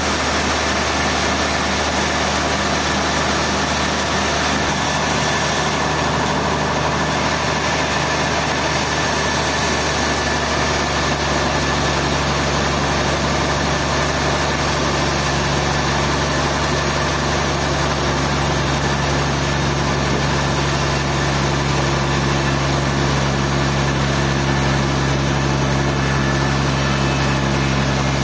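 Sawmill machinery running steadily, a constant engine drone that grows deeper and stronger about ten seconds in.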